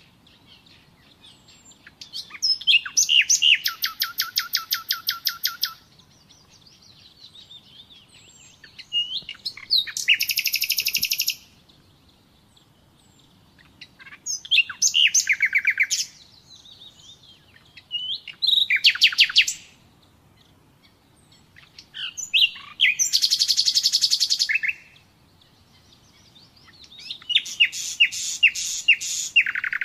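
Common nightingale singing: six loud phrases, each one to four seconds of fast repeated notes and trills, with pauses of two to three seconds between them.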